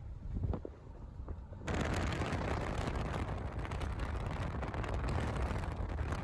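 Wind buffeting the microphone. A low rumble with crackles jumps about two seconds in to a loud, steady rushing gust.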